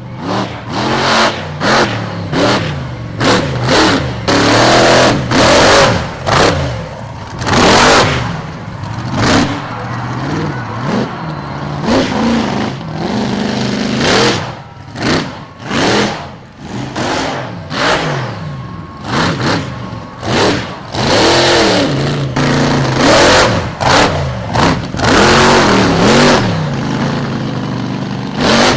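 Monster truck's supercharged big-block V8 revving hard again and again, the pitch climbing and falling in quick bursts of full throttle with short lifts between.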